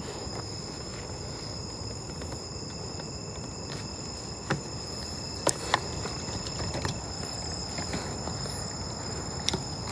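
Night insects, crickets, trilling steadily in two high, unbroken tones, with a few small clicks about halfway through.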